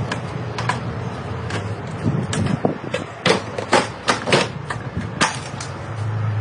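Metal clanks and knocks from car parts being worked loose during dismantling, coming in a quick irregular run in the middle, over a steady low machine hum.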